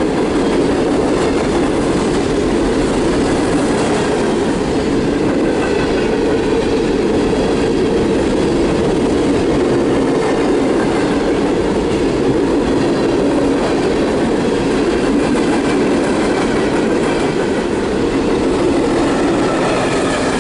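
Empty coal hopper cars of a CSX freight train rolling past, a loud, steady rumble and clatter of steel wheels on rail, with faint wheel squeal coming and going.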